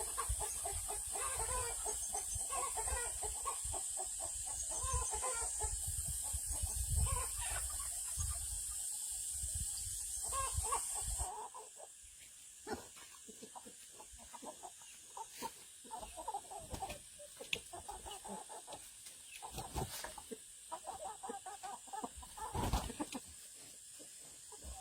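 A flock of chickens clucking, many short calls overlapping, with a steady high hiss behind them. About eleven seconds in the sound cuts to a quieter scene of scattered clicks and knocks with occasional clucks.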